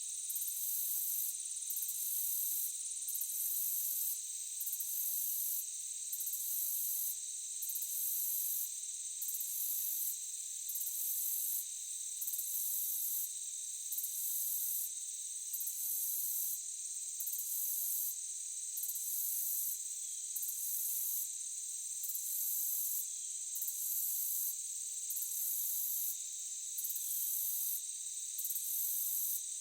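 Forest insect chorus: a steady high-pitched chirring, with a still higher trill that breaks off briefly about every second and a half in an even rhythm.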